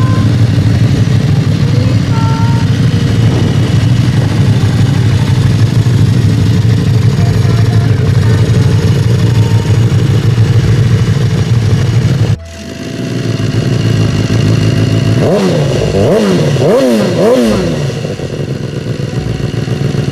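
Motorcycle engine noise runs steadily until it cuts off abruptly about twelve seconds in. Then a motorcycle engine is revved up and down several times in quick succession and settles to a lower steady running.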